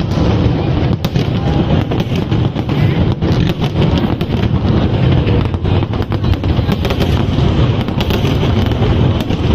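Fireworks going off in rapid succession, a dense, continuous crackle of many small cracks and pops over a steady low rumble.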